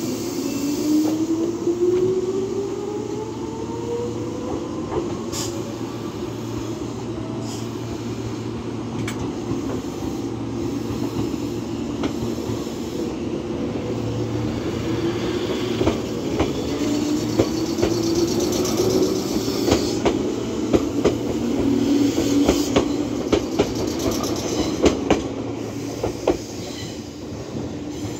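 Two Meitetsu 6000-series electric trains pull out one after the other, each with a motor whine that rises in pitch as it speeds up. The second departure brings a run of rhythmic wheel clacks over the rail joints, which die away near the end.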